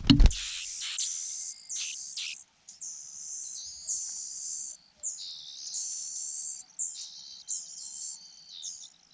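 Rufous-bellied niltava nestlings begging: a dense, high-pitched chorus of chirps in near-continuous bursts, opening with a sharp thump.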